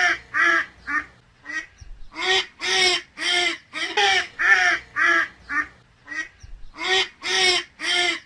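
Duck quacking: about two loud, nasal quacks a second in three runs, each run tailing off into shorter, softer quacks.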